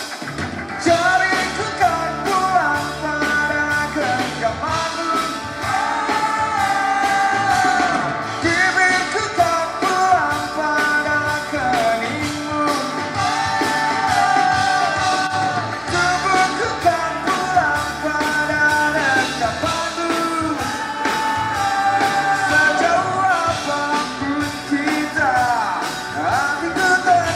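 Band playing a pop-rock song, with a steady beat and a sung melody over it.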